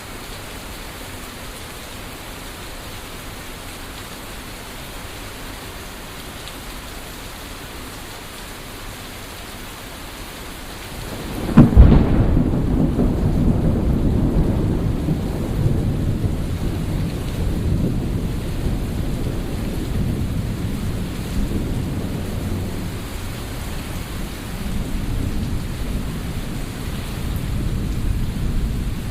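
Steady heavy rain, then about a third of the way in a sudden loud thunderclap breaks into a long, low rolling rumble of thunder that slowly fades while the rain keeps falling.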